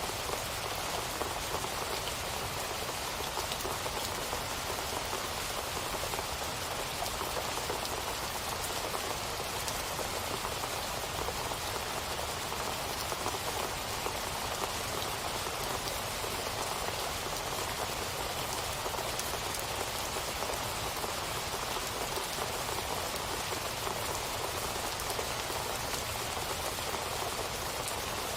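Steady rain falling on a surface, a dense patter of drops with no let-up.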